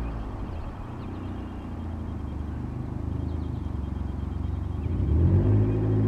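A low engine rumble that fades to a softer noisy hum, then rises in pitch and grows louder about five seconds in, as an engine opening up.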